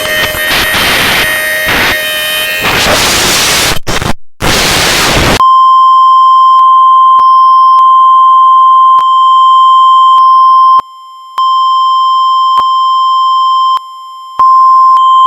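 Very loud, harsh noisy blare for about five seconds, cutting out briefly twice near the end. It then switches to a single steady electronic beep tone, like a test tone, held for the rest of the time with faint clicks and two short dips in level.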